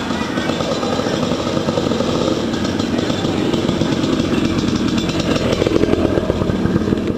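Motorcycle engine running with a rapid, even firing beat, getting a little louder about five seconds in.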